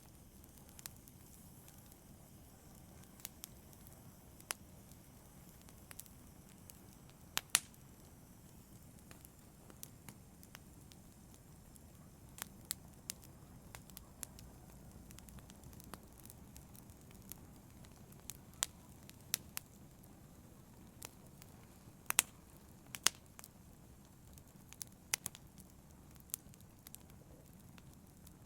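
Wood fire burning in a fireplace, crackling: irregular sharp pops and snaps over a low, steady hiss of flame, with a louder double pop about seven seconds in and another about twenty-two seconds in.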